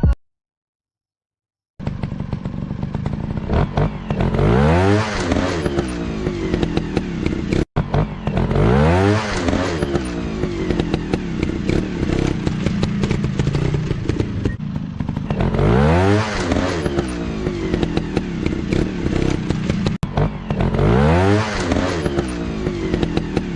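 Small dirt-bike engines running and revving up repeatedly, each rev a rising whine, about four times. The engine sound begins a couple of seconds in, after a brief gap.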